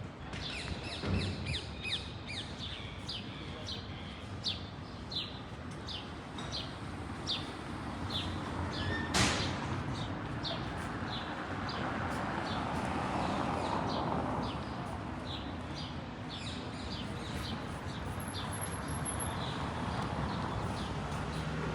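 Footsteps on pavement: a steady walking rhythm of short clicks, about one to two a second, over a hum of city street noise, with one louder knock about nine seconds in.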